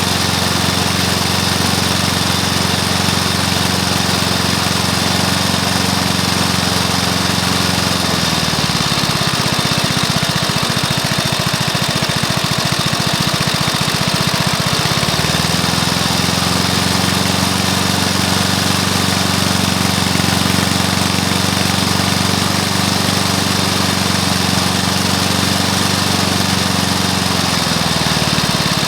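Rebuilt Briggs & Stratton single-cylinder lawnmower engine, fitted with a new piston, rings and valves, running at a steady speed. About eight seconds in it slows to a low idle, where the separate firing pulses can be made out. It picks back up to speed around fifteen seconds in and slows again near the end.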